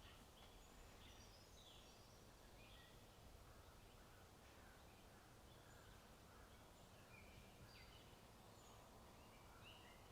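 Faint birdsong: many short chirps and calls from several birds, scattered throughout, over a steady low background hiss.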